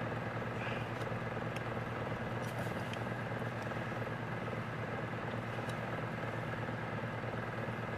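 A steady low machine hum, with a few faint light clicks from pliers working small metal carburetor parts.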